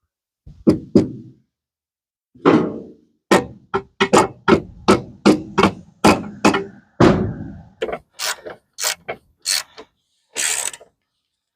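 Hand ratchet wrench worked in quick short strokes, each swing giving a sharp clicking burst, about twenty strokes with a short pause about a second in.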